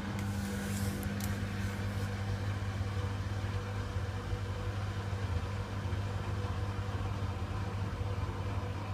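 Hoover WDYN 11746 PG8 washer-dryer running its first rinse: a steady low hum from the machine. A brief hiss comes in over it during the first two seconds.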